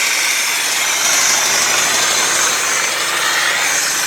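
1989 Ford F-250's 5.8-litre Windsor V8 idling steadily, running on only four cylinders with one side of the engine not firing.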